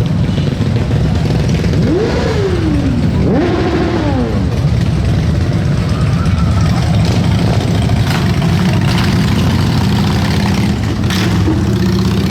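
Motorcycle engine running steadily, blipped twice a couple of seconds in, each rev rising sharply and falling back.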